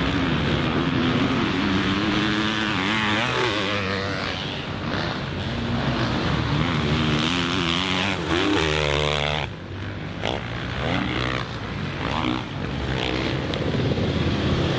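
Motocross bike engine revving hard and backing off again and again as it is ridden around the track, its pitch rising and falling with the throttle; it drops off briefly about nine and a half seconds in.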